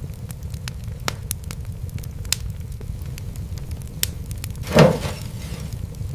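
Wood fire crackling: scattered sharp pops over a steady low rumble, with one louder, longer pop about five seconds in.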